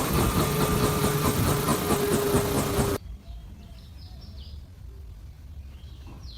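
Helicopter running, a loud steady engine and rotor noise with a held whine, which cuts off suddenly about three seconds in. A much quieter stretch follows with a few short, high bird chirps.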